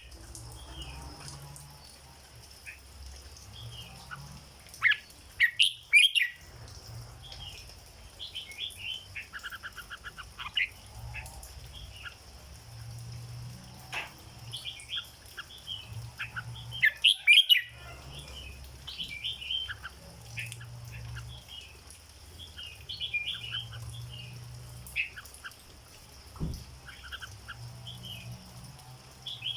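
Red-whiskered bulbul singing: a string of short, bright chirping phrases, with louder bursts of song about five seconds in and again at about seventeen seconds.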